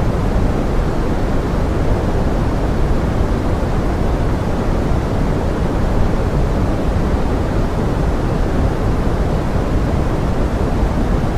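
Steady pink noise mixed with a rain sound: an even, unbroken rushing hiss, strongest low down and thinning toward the top, with no separate drops or events standing out.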